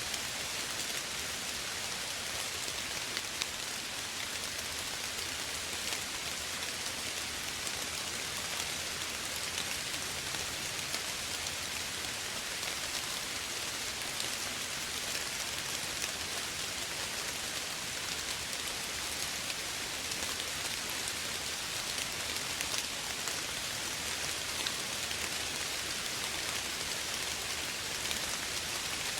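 Steady soft rain falling on a surface, an even hiss with scattered small drop ticks.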